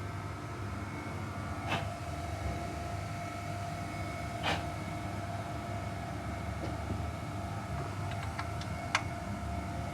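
Steady mechanical hum with a low rumble, broken by a few sharp clicks or taps: one about two seconds in, one midway and one near the end.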